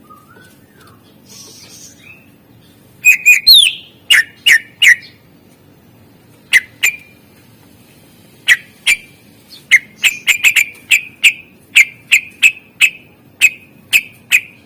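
Cucak ijo (green leafbird) singing in sharp, whip-like whistled notes that sweep down from very high pitch. The song begins about three seconds in with a quick cluster of notes, continues with single spaced notes, and comes in a faster run near the end.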